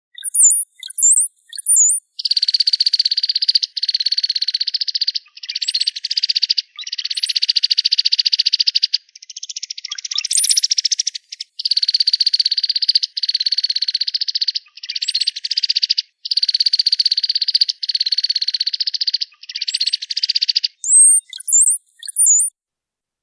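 Cowbird song: a few high, thin slurred whistles, then a long series of dry, rapid buzzing rattles of a second or so each, and more high slurred whistles near the end.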